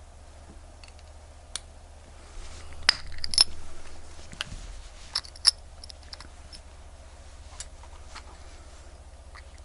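Small sharp clicks and taps of watch-repair tools and small watch parts being handled, irregular and loudest around the middle, over a steady low hum.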